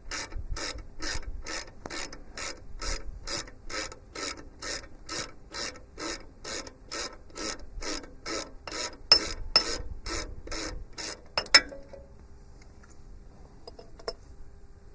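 Socket ratchet wrench worked back and forth in quick even strokes, about three ratcheting rasps a second, backing out a 17 mm sub-frame bolt. The ratcheting stops about 11.5 seconds in with a sharp metallic click, followed by a few faint clinks.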